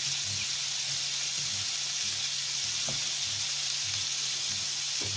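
Chicken tenderloins sizzling as they fry in butter in a stainless steel frying pan: a steady, even hiss.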